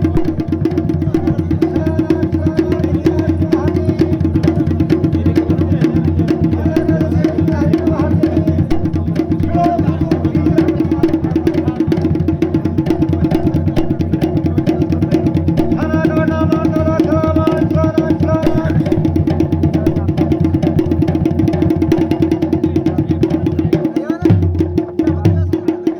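Dhol and damau drums playing a fast, dense, continuous beat as dance accompaniment. A short tuneful line joins about sixteen seconds in, and the beat breaks up near the end.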